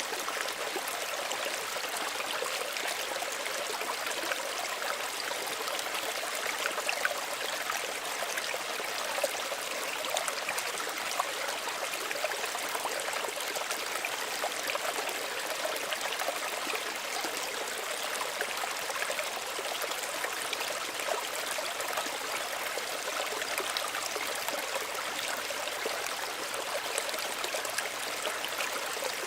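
Small stream running steadily, water trickling and splashing over stones with many small bright droplet splashes.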